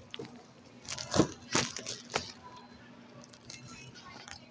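Husks being torn off an ear of fresh sweet corn: a quick run of sharp tearing cracks between about one and two seconds in.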